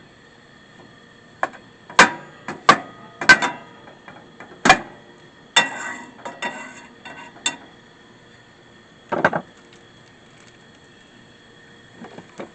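Objects being handled and set down, a series of sharp knocks and clatters with a couple of seconds of rattling in the middle.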